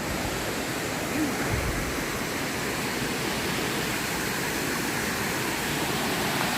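Waterfall pouring, a steady, even rush of water.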